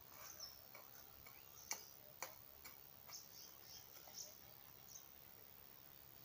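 Faint, high chirps of small birds in the background, with two sharp clicks about half a second apart a little under two seconds in.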